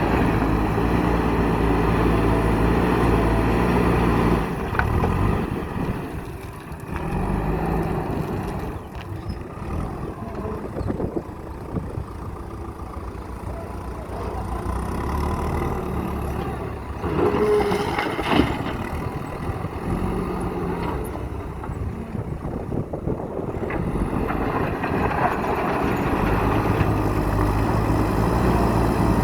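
Diesel engine of a JCB backhoe loader working under hydraulic load. It is loud at first, eases off through the middle, then revs up again near the end, with a short burst of rattling noise about two-thirds of the way through.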